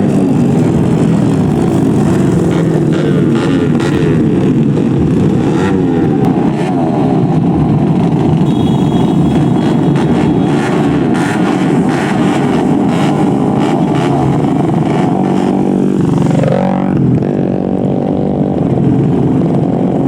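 Several small-capacity racing motorcycle engines from the 200cc class running at high revs, their pitches sliding up and down over one another. About sixteen seconds in, one engine's pitch drops sharply and climbs again.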